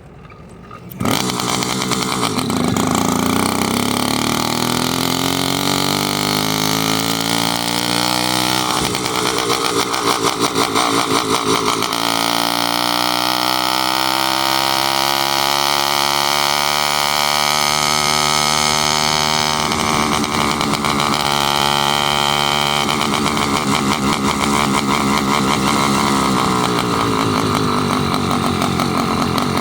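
Motorized bicycle's small engine coming in loudly about a second in, then climbing in pitch as the bike accelerates, twice, before running at a steadier speed.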